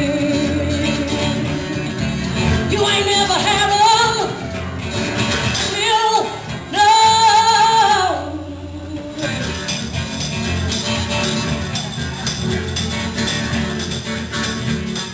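Live band music: guitar backing under a melody of long held, wavering notes that stands out between about three and nine seconds in.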